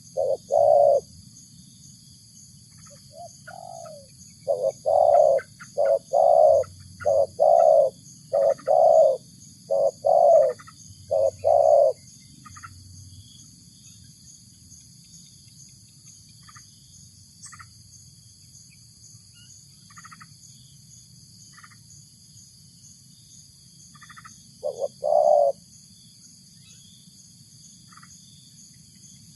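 Spotted dove (tekukur) cooing in deep, repeated notes: a short phrase at the start, a longer run of about eight coos midway, and one more short phrase near the end. Faint chirps of small birds and a steady high-pitched drone run in the background.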